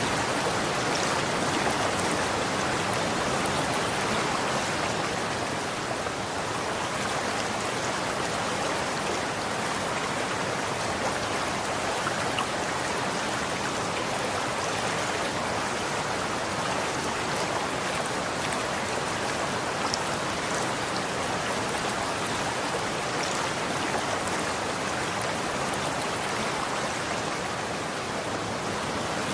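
Running water, a steady rushing flow with faint splashes and drips.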